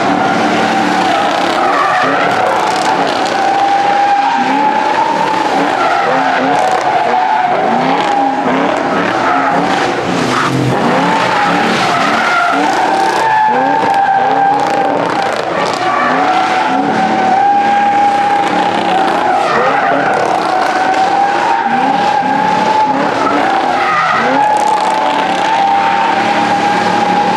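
A car doing a long burnout: the spinning rear tyres squeal in a steady, slightly wavering high tone throughout, while the engine revs up and down underneath.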